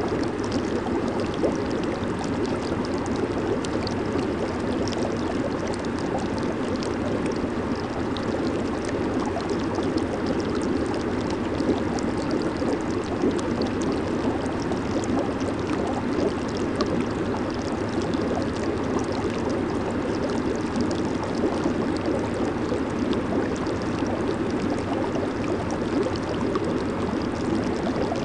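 Jacuzzi water churning and bubbling steadily under its jets, with a fine crackle of bursting bubbles over it.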